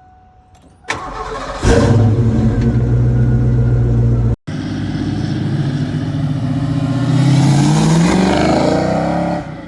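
A 1988 Ford Mustang GT's 5.0-litre V8 starts with a short click and catches about a second and a half in, then runs steadily. The sound drops out for a moment after about four seconds, then the engine revs up, its pitch rising, and eases off near the end.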